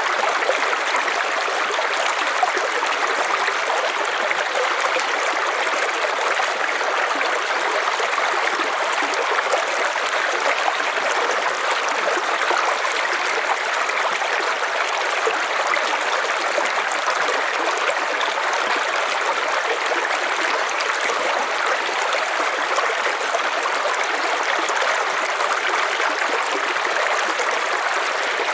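River water flowing steadily, an even rushing and babbling with no let-up.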